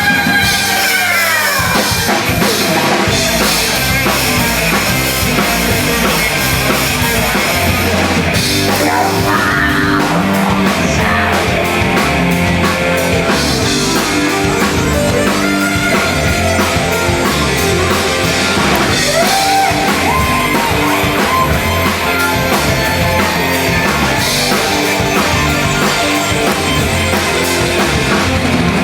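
Live hardcore/screamo band playing loud, distorted electric guitars, bass and drum kit. A held guitar chord bends down in pitch about a second in, then the full band drives on steadily.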